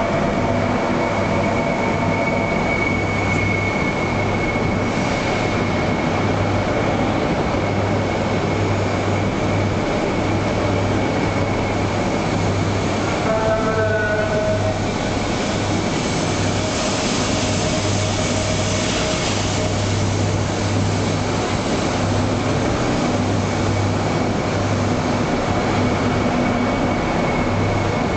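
Max Toki double-decker Shinkansen train at the platform: a steady electrical hum with a constant high whine. About halfway through comes a short falling whine, and a few seconds later a hiss.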